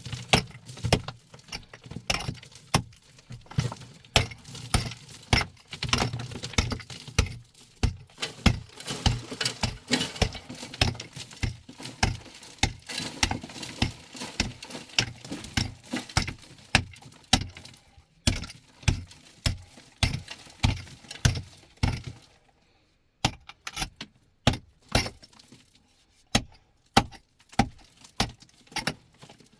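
A long run of sharp knocks or strikes, about two to three a second, with some clinking; after about twenty-two seconds they come more sparsely and quieter.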